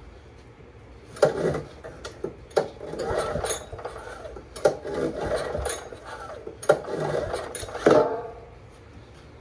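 Honda EM3000 generator's recoil starter pulled about five times in quick succession, each pull a short rasping crank of the engine that does not catch.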